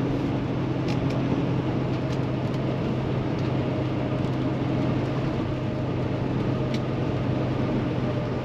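Paccar MX13 diesel of a Kenworth T680 semi droning steadily while driving, heard inside the cab over a constant hiss of road and tyre noise on wet pavement. A few faint ticks sound now and then.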